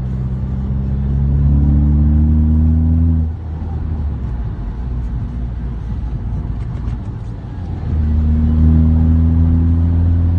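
Fiat Grande Punto 1.9 JTD four-cylinder turbodiesel, 170 hp, accelerating hard with its pitch climbing. It cuts off sharply about three seconds in and runs quieter for several seconds. It then pulls hard again with rising pitch for the last couple of seconds.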